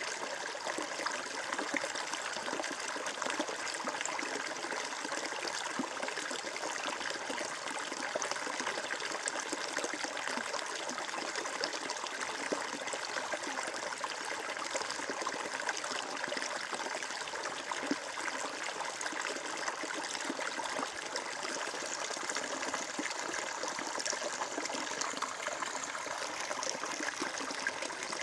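Water flowing and trickling steadily, as in a small stream, with an even splashing hiss.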